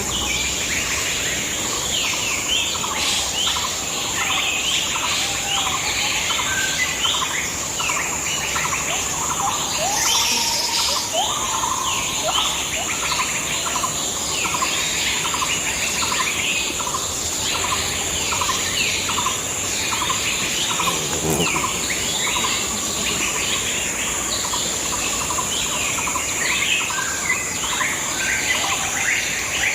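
Woodland birdsong chorus: many birds chirping and calling in quick repeated phrases, over a steady high-pitched drone.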